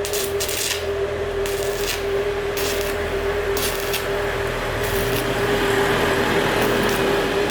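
A machine's motor running with a steady hum and a noisy whir, overlaid by short hissing or scraping strokes roughly once a second.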